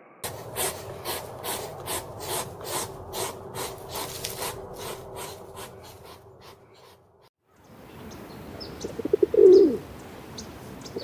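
A hedgehog snuffling as it forages, in short rhythmic puffs about three a second. Then feral pigeons, one giving a loud coo about two-thirds of the way in, with faint chirps of small birds.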